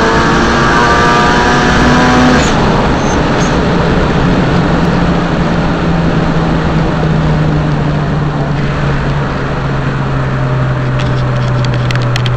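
Cabin sound of a turbocharged Honda B16A 1.6-litre VTEC four-cylinder in a Civic revving hard and climbing in pitch for about two seconds, then cutting off as the throttle closes. After that, loud wind and tyre noise with a low engine hum that slowly falls in pitch as the car slows. A few light clicks come near the end.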